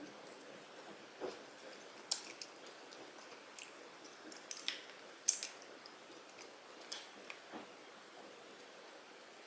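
Close-up chewing of soft food, with short, sharp wet clicks and smacks of the mouth scattered through it, the sharpest about two seconds in and about five seconds in.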